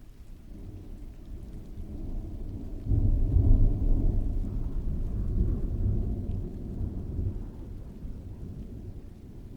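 A long roll of distant thunder over steady rain: the low rumble builds, surges sharply about three seconds in, then slowly dies away.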